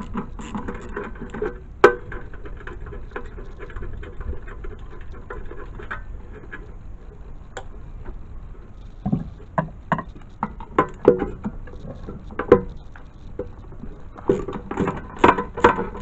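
Irregular clicks, taps and knocks of hands handling hard objects, with one sharp knock about two seconds in and a denser run of knocks in the second half; no motor is running.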